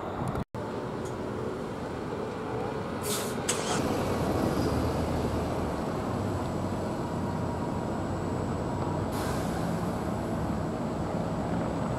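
Steady low rumble of a vehicle in motion, with short hisses about three seconds in and again about nine seconds in.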